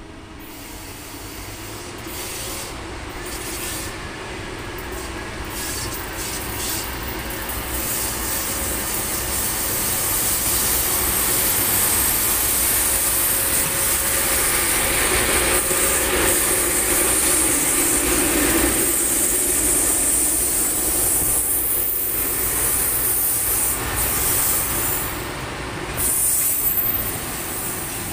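EP20 electric locomotive hauling a passenger train out of a station and passing close by. The running noise grows louder over the first ten seconds as the locomotive approaches, then holds steady as the carriages roll past on the rails.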